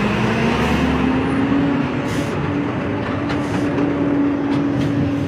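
Heavy truck engine running, its note rising a little over the first couple of seconds and then holding steady, over a dense rumble of road noise; it cuts off suddenly at the end.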